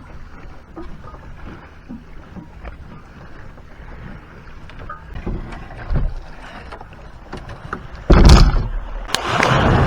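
Kayak out on the water: quiet water noise and small knocks of the paddle and hull. About eight seconds in, a sudden, much louder rush of splashing noise starts and keeps going.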